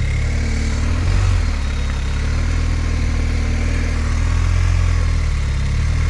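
Motorcycle engine running at low revs with small throttle changes as the bike is ridden slowly through a tight cone weave.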